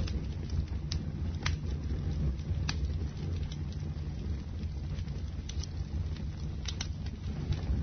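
Bonfire burning: a steady low rumble of flame with occasional sharp crackles and pops from the burning wood.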